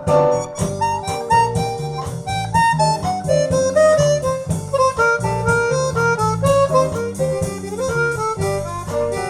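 Instrumental break of a small band: a harmonica plays a moving melody line of held notes over plucked guitar accompaniment with a steady low pulse.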